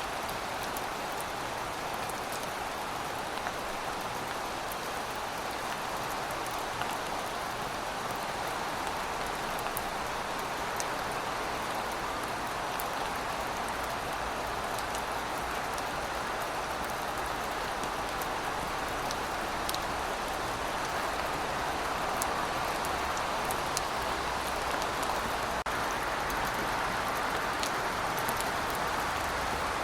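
Steady rainfall: an even hiss of rain with scattered sharp drop ticks, growing slightly louder over the second half.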